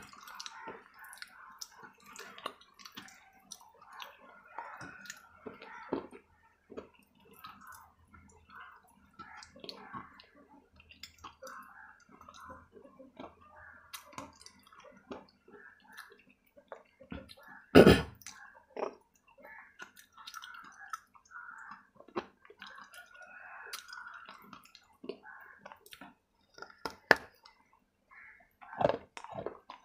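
Close-up crunching and chewing of hard pieces of baked clay, with wet mouth clicks and small cracks throughout, and one loud sharp crunch about two-thirds of the way through.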